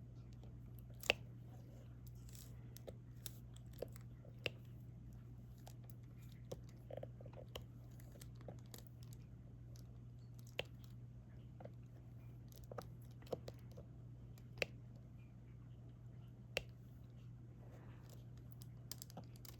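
Small, irregular clicks and taps of a diamond painting pen picking up resin drills and pressing them one at a time onto the sticky canvas, over a steady low hum.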